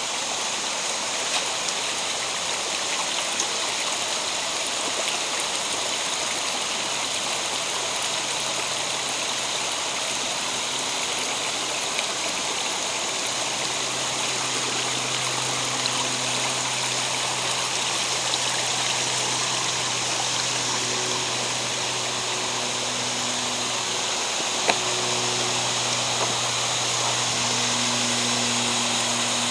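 Mountain stream rushing steadily, with a faint low hum under it from several seconds in.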